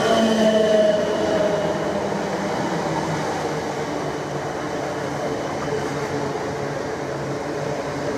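Red South Western Railway suburban electric multiple unit passing close by at speed: a steady rumble of wheels on rail, with a motor whine gliding slightly lower in the first second.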